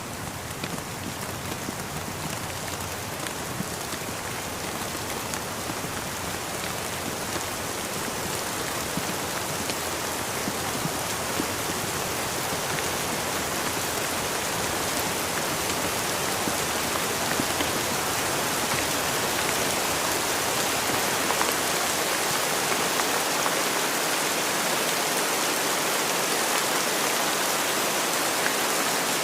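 Steady rain falling and pattering on surfaces, growing gradually louder.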